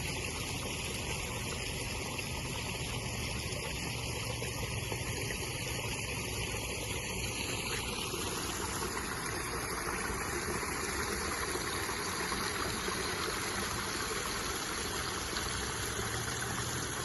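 Stream water running and babbling steadily.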